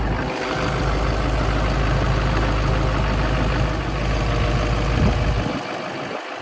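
Tractor engine running, a heavy low rumble with mechanical noise over it; the low rumble drops away near the end.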